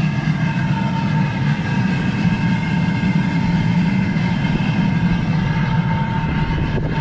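Steady, even drone of a gas-fired glass furnace running, its burner and blower going without change.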